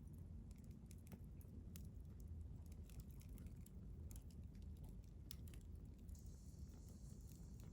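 Wood fire crackling softly in a stainless fire grill: scattered small pops and ticks over a low rumble. A faint high hiss comes in about six seconds in.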